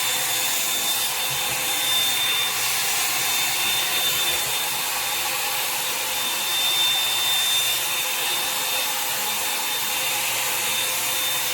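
Revlon One-Step hair dryer brush running steadily, a constant blowing rush with a thin high whine, as it is pulled through hair.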